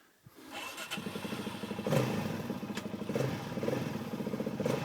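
Dirt bike engine starting up about half a second in, then running with uneven surges of revving.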